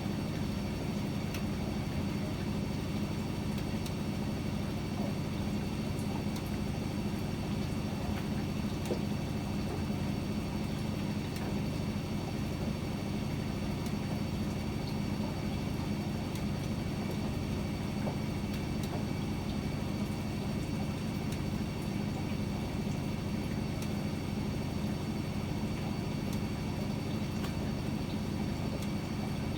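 Privileg 804 washing machine running: a steady motor hum and drum rumble that stays even throughout.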